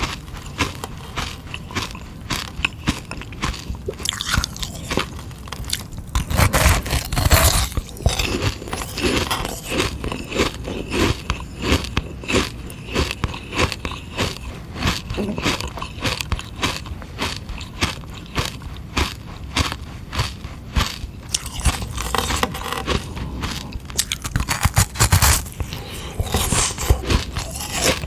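Biting and crunchy chewing of a hard sugar-water ice pop: a steady run of crisp crunches, with louder clusters of bites about six seconds in and again near the end.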